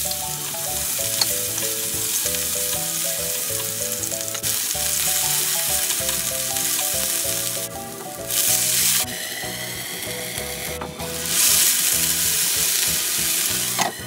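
Cubed potato sizzling as it fries in hot oil in a pan, with a steady hiss. The sizzle gets louder about eight seconds in, when water goes into the hot pan, and again from about eleven seconds. Soft background music plays underneath.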